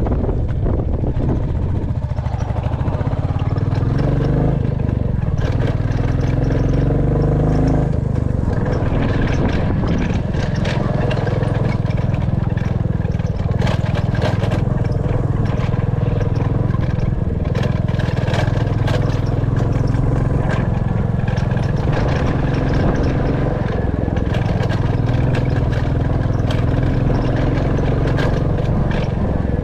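Royal Enfield Classic 350's single-cylinder engine running while riding, its pitch rising and falling with throttle several times. Frequent short rattles and knocks sound over it.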